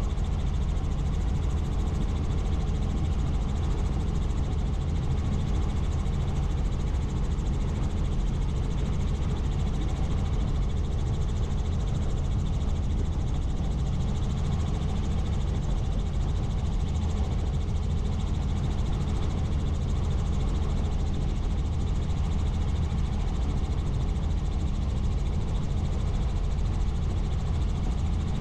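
Helicopter in flight: its rotor and turbine engine give a loud, steady, deep drone that does not change.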